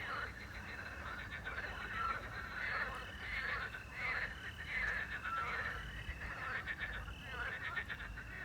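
A chorus of frogs croaking in rasping bursts about once a second, over crickets trilling steadily. A short whistled note sounds twice.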